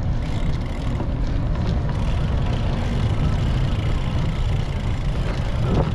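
Steady wind buffeting and road rumble on a GoPro's microphone while riding a bicycle, heaviest in the low end.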